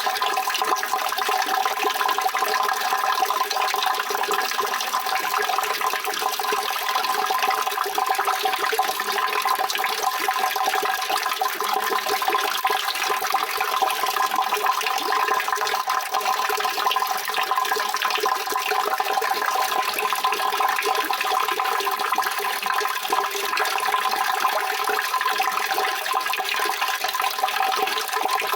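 Continuous rushing water, a steady even sound that holds without change.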